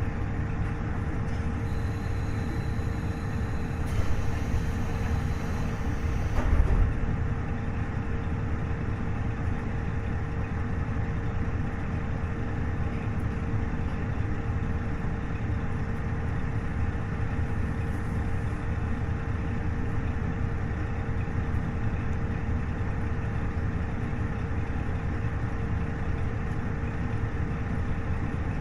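Inside a KiHa 40 series diesel railcar, its DMF15HSA six-cylinder diesel engine hums steadily over the rumble of the wheels on the rails. About four seconds in there is a brief burst of higher noise, and a thump a couple of seconds later.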